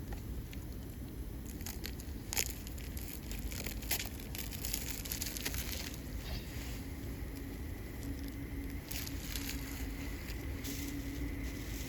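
Wood campfire burning, crackling with scattered sharp pops, the two loudest about two and a half and four seconds in. A faint steady hum comes in during the second half.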